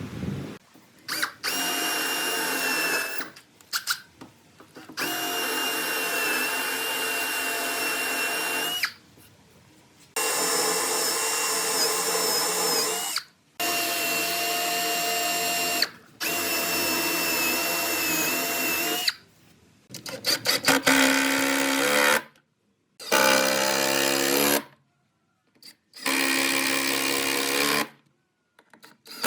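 Electric power drill running in repeated short bursts of two to three seconds, starting and stopping about eight times. Some runs climb in pitch as the motor speeds up.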